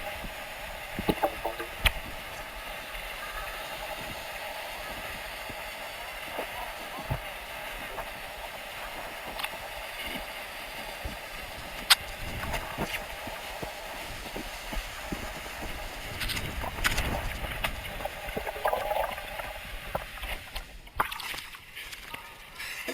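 Water sloshing and splashing, with scattered sharp knocks.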